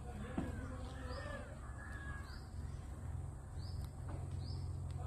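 Birds calling: a harsh, drawn-out call in the first two seconds, with short high chirps repeating about once a second throughout, over a steady low hum.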